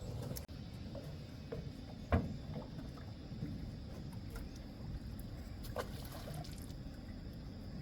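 A small boat being paddled on a lake: water splashing and lapping around the hull over a steady low rumble. There are a few short knocks or splashes, the loudest about two seconds in.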